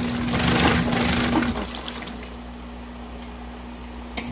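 Compact washing machine running with a steady motor hum and water sloshing in the tub; the louder part drops away about one and a half seconds in, leaving a quieter water sound, with two sharp clicks near the end.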